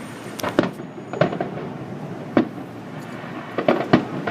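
Aerial firework shells bursting: an irregular series of sharp bangs, about eight in all, some coming in quick pairs.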